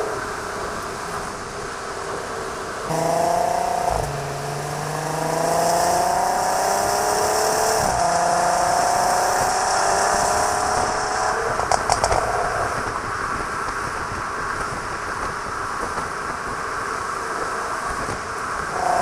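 3.6 VR6 engine of an Audi TT Mk2 running through a Varex valved exhaust, pulling up through the gears: the engine note climbs in pitch, drops at upshifts about four and eight seconds in, and a few sharp cracks come near twelve seconds before it settles into steady cruising.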